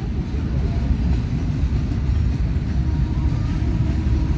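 Freight train of covered box wagons rolling past, a steady low rumble of steel wheels on rail.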